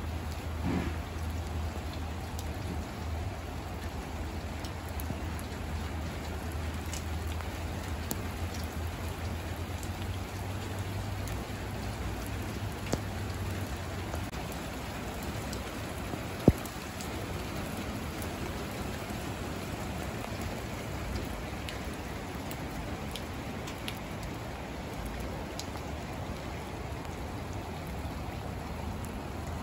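Heavy rain falling steadily on wet, puddled asphalt, a dense even patter and splash. A single sharp tap stands out about halfway through.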